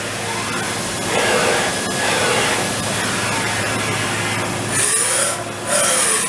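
Makino S56 CNC vertical machining center running: a steady hum under a broad hiss, with faint whines sliding up and down. Two short, loud bursts of hiss come about five and six seconds in.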